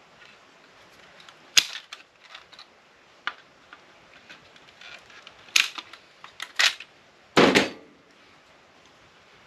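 Side cutters snapping through solder and wire on brass contacts: a handful of sharp, separate snips spread over several seconds, with a heavier, longer clatter near the end.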